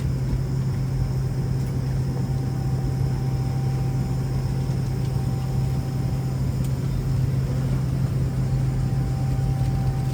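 Steady low drone of a Boeing 737-500's engines and air conditioning heard inside the passenger cabin, with a faint steady whine above it.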